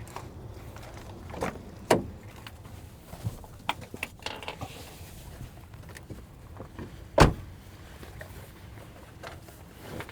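Scattered knocks and clicks from handling things at a truck, with two sharp thumps: one about two seconds in and a louder one about seven seconds in.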